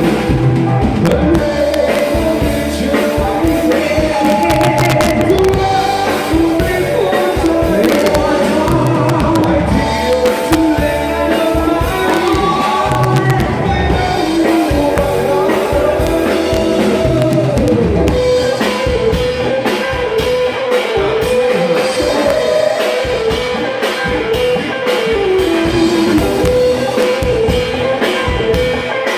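A band playing a rock song: a singer over electric guitar and a drum kit.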